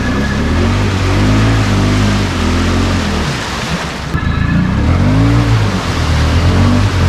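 Can-Am Outlander XMR ATV's V-twin engine revving hard in repeated bursts while working through mud and water, its pitch rising and falling again and again, with a brief drop about three to four seconds in before it revs up again.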